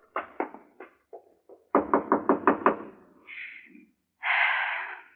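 Radio-drama sound effects: a few scattered knocks, then a quick run of about seven knocks on a door, followed by two short scraping sounds near the end.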